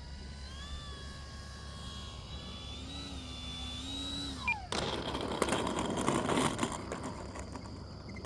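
Electric RC model Cessna 182's brushless motor whining in flight, its pitch falling as it is throttled back about four and a half seconds in. Then a sudden, louder rough rattling with crackles: the model touching down and rolling out on the road.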